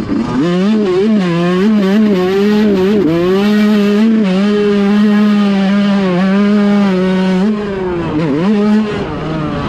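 Dirt bike engine at high revs, its pitch rising at first and wavering with the throttle, then holding steady at full speed. The note drops near the end, dips once more and fades away.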